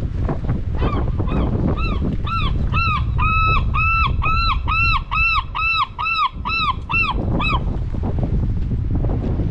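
A bird giving a long run of short calls, each rising then falling in pitch, about three a second for some six or seven seconds, over a steady low rumble of wind on the microphone.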